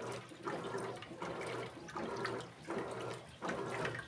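Electrolux Essential Care LED14 top-loading washing machine agitating a load: water sloshing in surges about every 0.8 s over a steady low motor hum.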